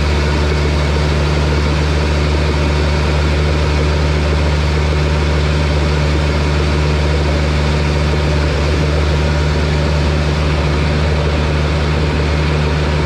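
Heavy diesel machine engine running steadily at one constant speed, a loud low drone with no revving.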